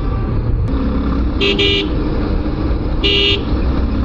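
Vehicle horn beeping: a quick double beep about a second and a half in, then a single beep about three seconds in, over the steady low rumble of a motorcycle ride.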